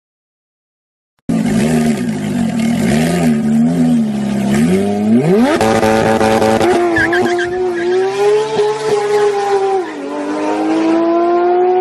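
Porsche 911 GT3's naturally aspirated flat-six engine revving hard as the car accelerates away. It comes in a little over a second in, the revs climb steeply about five seconds in and hold high, drop at a gear change near ten seconds, then climb again.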